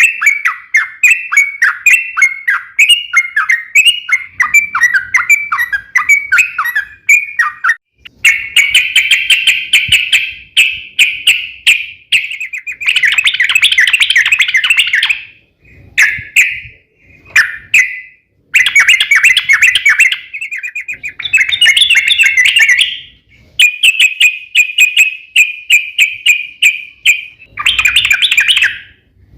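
Yellow-vented bulbul (trucukan) singing long, rapid chattering runs of fast repeated notes, each run lasting several seconds with brief pauses between. This is the 'ropel panjang' long-run song used as a lure to set other trucuk birds singing.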